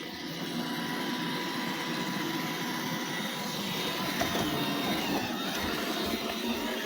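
iRobot Roomba 877 robot vacuum running, a steady motor and brush noise with a thin whine over it and slight shifts in pitch as it moves.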